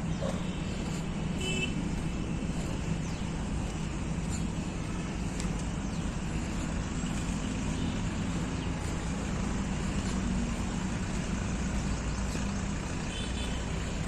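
Steady low rumble of road traffic or a running vehicle, with two brief high chirps, one about a second and a half in and one near the end.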